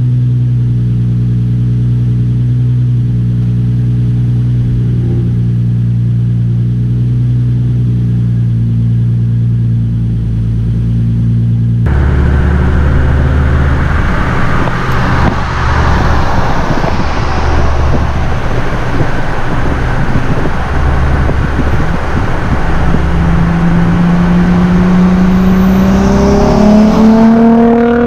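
Nissan 350Z's VQ35DE V6 through an ISR single-exit cat-back exhaust. The engine drones at a steady pitch for about twelve seconds, then the sound turns suddenly louder and rougher, with a low rumble and road and wind noise. Near the end the engine accelerates, its pitch rising, before dropping off.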